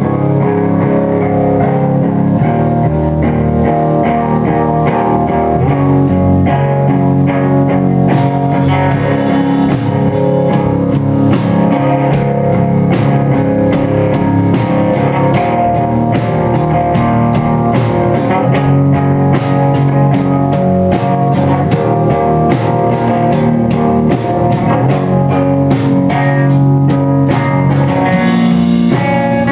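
Live band playing a song at full volume, with a steady run of sharp hits that grows denser and brighter about eight seconds in.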